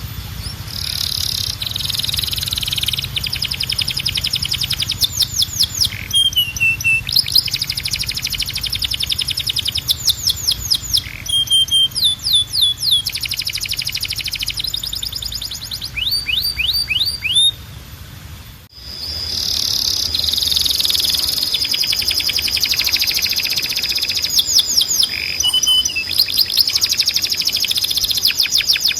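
Timbrado song canary singing a continuous run of fast trills and rolls, with a few sliding notes, broken by a brief pause about two-thirds of the way through. A faint low hum sits underneath.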